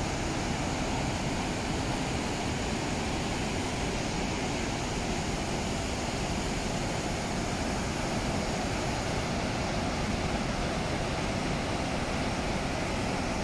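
The Rhine Falls, a large waterfall, pouring with a steady, even rush of water.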